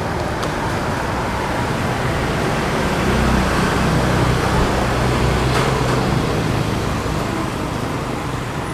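Steady road traffic running past, with engine rumble swelling as a vehicle passes in the middle and then easing off.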